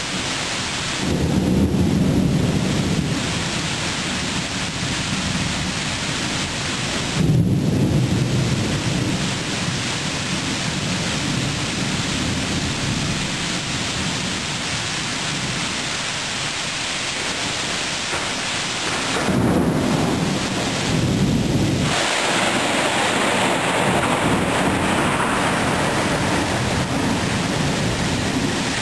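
Thunderstorm: steady heavy rain with thunder rumbling three times, about a second in, about seven seconds in with the sharpest crack, and again near twenty seconds in.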